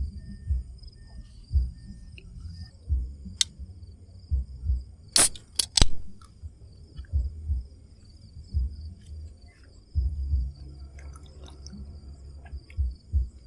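Crickets chirping steadily in a high trill, over repeated low thumps and rumbles. A few sharp clicks or knocks come close together about five to six seconds in.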